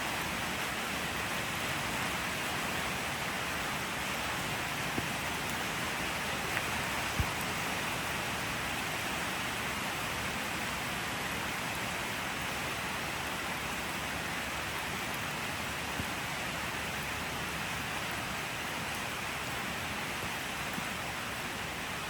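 Steady rain falling, an even hiss, with a few faint sharp ticks scattered through it.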